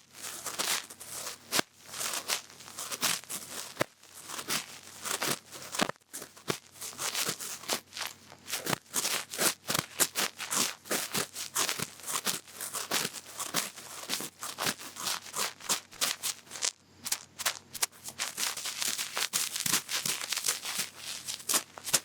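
Cotton swab rubbing and scratching in an ear close to the microphone: a dense, irregular run of quick, crackly strokes.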